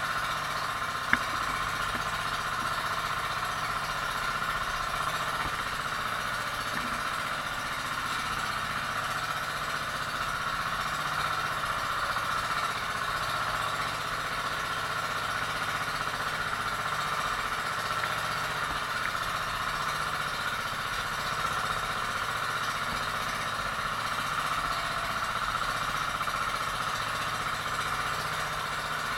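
A boat engine running steadily at constant speed, a continuous even drone. A single sharp click about a second in.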